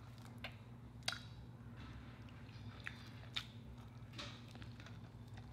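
Faint, close-miked chewing and biting into a fried seafood burrito of fried cod and shrimp, beans and rice in a flour tortilla, with a handful of short, scattered crunches. A steady low hum runs underneath.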